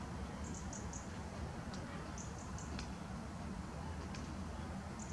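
Faint high-pitched bird chirps in short clusters of three or four quick notes, about every two seconds, over a steady low rumble, with a few light clicks.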